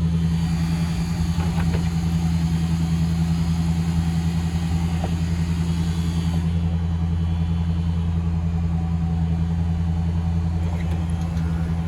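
A 1965 Cadillac's 429 V8 running steadily after a cold start, with an even low engine note. A lighter hiss above it drops away about six and a half seconds in.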